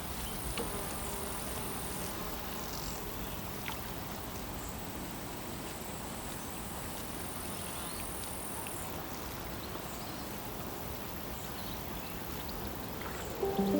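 Outdoor ambience at a pond: a steady background hiss with a faint high-pitched steady tone that stops about nine seconds in, and a few brief faint high sounds.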